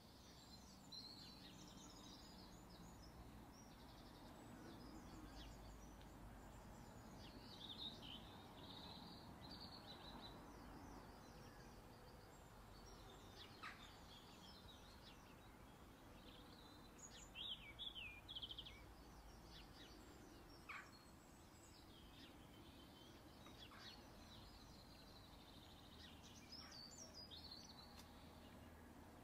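Faint birdsong: small birds chirping and twittering in short, scattered phrases, with a cluster of louder chirps a little past the middle, over a faint steady background hiss.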